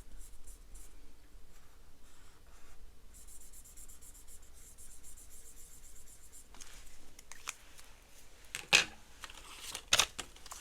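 Pen scratching on paper as spaces on a savings challenge sheet are marked off, with light paper handling and two sharp clicks near the end.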